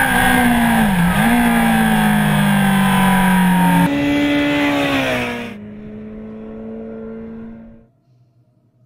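Honda CBR1000RR Fireblade's inline-four engine at high revs, heard onboard with wind noise, with a brief dip in revs about a second in. Nearly four seconds in it changes to the bike heard from trackside, its pitch falling, then a quieter steady engine note that fades out near the end.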